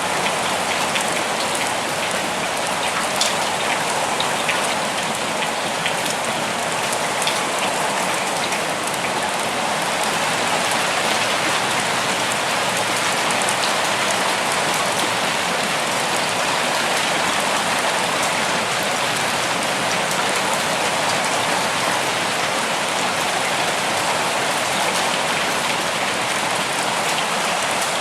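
Steady rain falling on a forest, an even hiss with scattered individual drop ticks.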